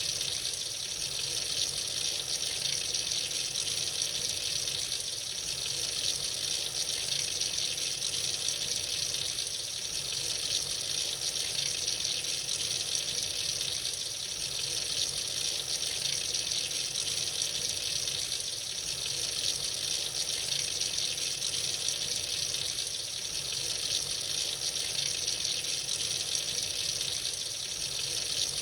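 Tap running freely into a sink, a steady, unbroken rush of water.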